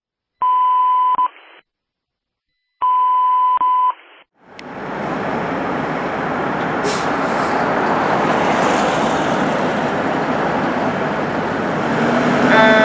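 Two long single-pitch electronic beeps that sound as if they come through a small speaker. Then a steady rush of engine and road noise builds slowly as the fire engine approaches, and near the end its Federal Q mechanical siren begins to wind up.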